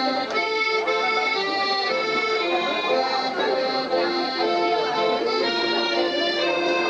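Accordion music: a melody of short held notes over sustained chords.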